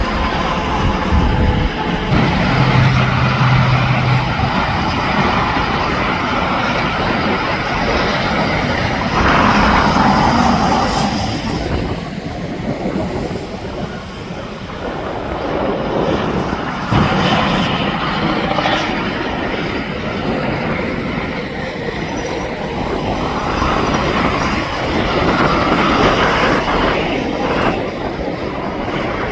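Interstate traffic with semi trucks going by: tyre and engine noise rising and falling as each one passes.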